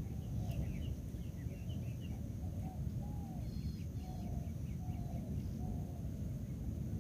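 Outdoor field ambience with a steady low rumble and faint bird calls: a few quick high chirps in the first two seconds, then a series of soft, short lower calls.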